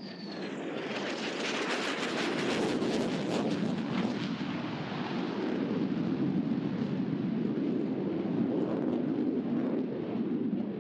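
F-35C Lightning II fighter jet's single Pratt & Whitney F135 engine at high power during a minimum radius turn. Loud jet noise swells in the first second with a falling whine, crackles sharply for the next few seconds, then settles into a steady loud rumble.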